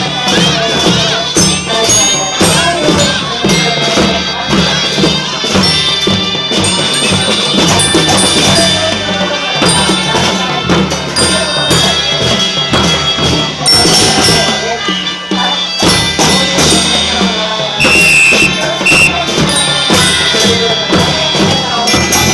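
Children's marching band playing: a steady march beat on drums and tambourine, with sustained melody notes over it.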